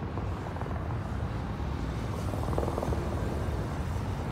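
Steady low rumble of a container freight train rolling past, with a faint rattle from the cars about two seconds in.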